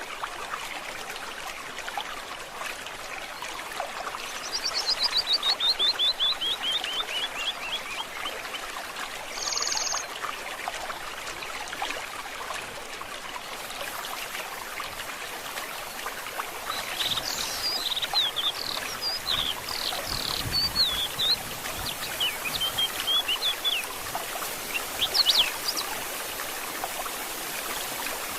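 A stream trickling and gurgling steadily, with birds singing over it: a rapid run of notes falling in pitch about five seconds in, a short high buzzy note, then varied warbling phrases in the second half.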